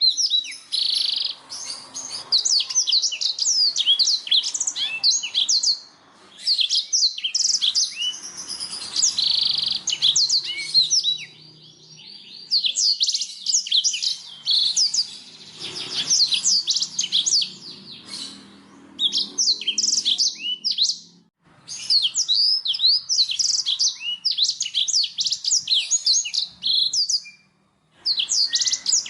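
Blackthroat (black-throated canary) singing: long phrases of rapid, high chirps and trills, each lasting several seconds, separated by brief pauses.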